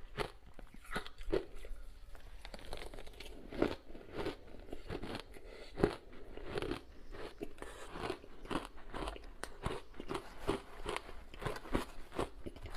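Close-miked chewing and crunching of ice coated in matcha powder: rapid, irregular crunches several times a second, with a couple of louder bites in the middle.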